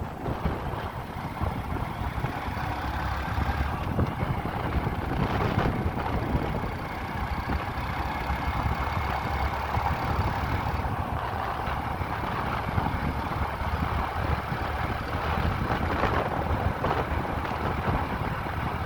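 Motorcycle engine running steadily during a ride, with a continuous rushing noise over it.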